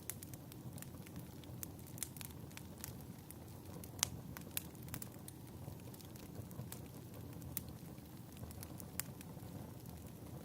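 Wood fire crackling, with irregular sharp pops over a low steady rumble; the sharpest pop comes about four seconds in.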